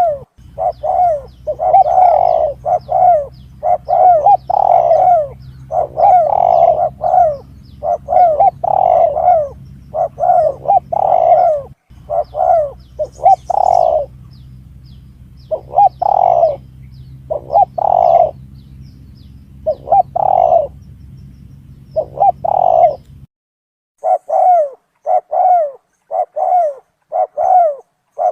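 Spotted dove (tekukur) cooing over and over in quick repeated phrases, a call recording played as a hunting lure to bring in spotted doves. A steady low hum underneath cuts off suddenly about five seconds before the end.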